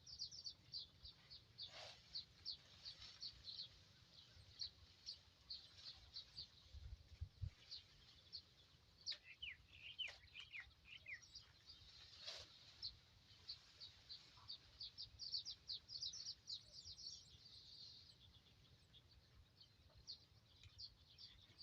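Faint bird chirping: quick, high, short chirps repeating throughout, with a brief run of lower, falling notes about ten seconds in.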